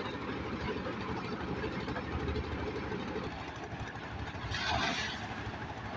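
Engine-driven machinery running steadily on a concrete pour, with a brief rushing hiss about four and a half seconds in.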